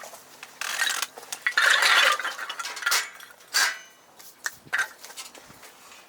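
Cookware and utensils being handled: a run of short clattering and scraping bursts over the first few seconds, the loudest about two seconds in, then a few light clicks.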